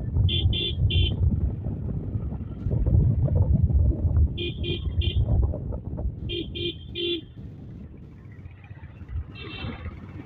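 A vehicle horn sounds three quick beeps, three times over, above the steady low rumble of a moving motorcycle and wind.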